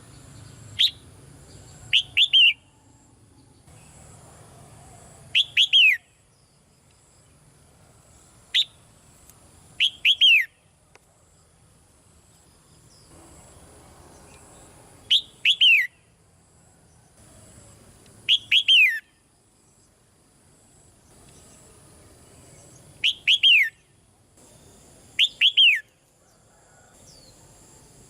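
Red-whiskered bulbul calling in short phrases of quick, downward-sweeping whistled notes, a phrase every two to five seconds.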